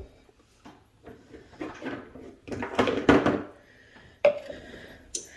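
Kitchen handling noises: a few sharp knocks of containers and utensils set down, with a stretch of scraping and rattling in the middle.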